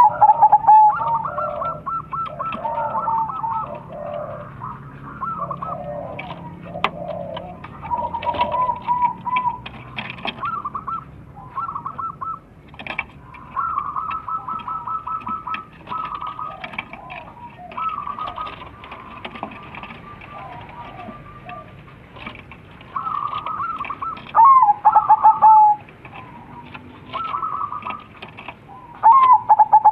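Several crossbred zebra doves (perkutut) cooing in rapid, rippling phrases that overlap and answer one another. A few phrases near the end are much louder.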